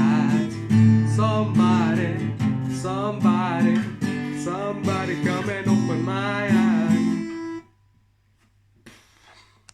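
Guitar playing a strummed rock riff with bent notes, which stops about three-quarters of the way in and leaves near silence.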